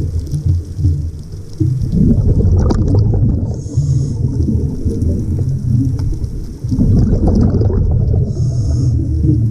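Diver breathing underwater through a regulator: a short hiss of inhaled air about four seconds in and again near the end, between long rumbling gushes of exhaled bubbles, over a constant low rumble.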